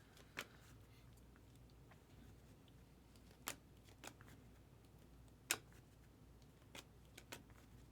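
Near silence broken by about six faint, sharp clicks and flicks of trading cards being handled and slid through the hands, two of them a little louder than the rest.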